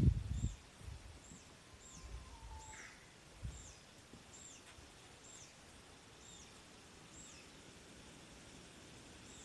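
A small bird repeating a short, high, falling chirp a little more than once a second, faint against a quiet background; the chirps stop about seven and a half seconds in. A low rumble dies away in the first half second, and a soft thump comes about three and a half seconds in.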